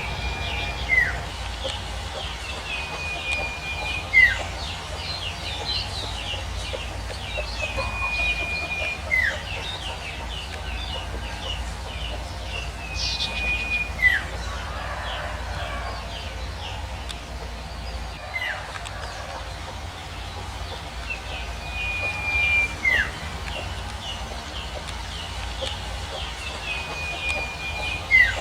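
Male sirtu bird calling repeatedly, a held whistle that ends in a quick downward slur, about every four to five seconds, over a busy chorus of other birds chirping. The call is the male's song to attract a female.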